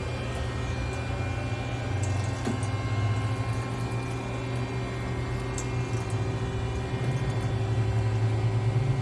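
A 2002 Yamashina Seiki MAX40-H CNC horizontal machining center running with a steady low hum and several steady tones above it, with a few faint clicks.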